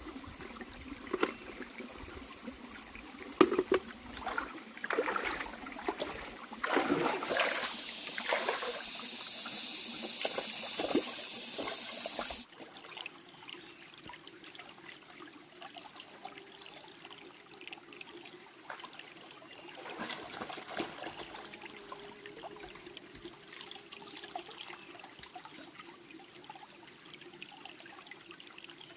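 Water running or pouring in a steady hiss for about five seconds, stopping suddenly, with scattered knocks and clicks before it.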